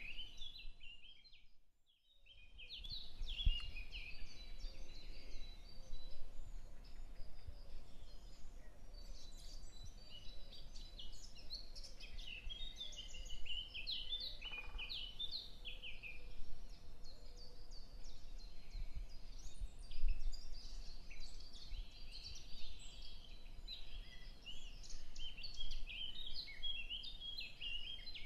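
Birdsong: many small birds chirping, short high calls following one another closely over a steady background hiss. The sound drops out briefly at about two seconds in.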